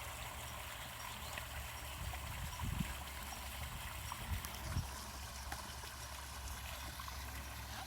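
Steady rush of a small waterfall pouring into a pond, with a few faint low thumps.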